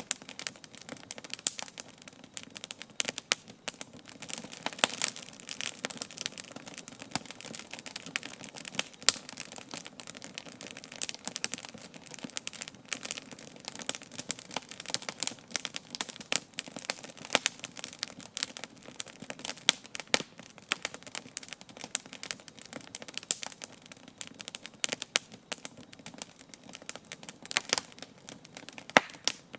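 Wood campfire crackling, with frequent irregular sharp pops and snaps over a soft continuous hiss.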